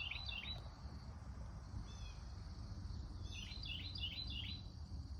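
A songbird singing a quick phrase of several notes at the start and again about three seconds in, with a short two-note call between, over a low steady outdoor rumble.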